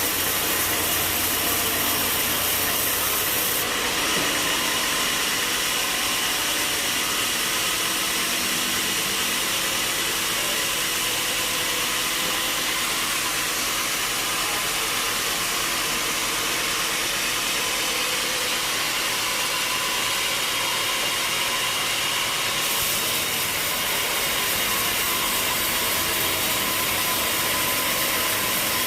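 Sawmill machinery running steadily with a constant mechanical drone and hiss, wood being sawn. The tone of the noise shifts about four seconds in and again about twenty-three seconds in.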